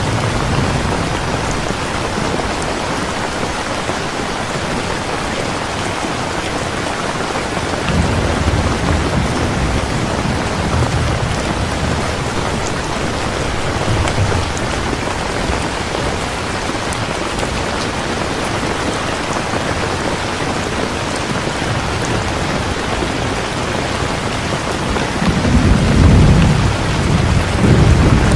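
Heavy, steady rain with thunder rumbling low now and then, loudest in a long rumble near the end.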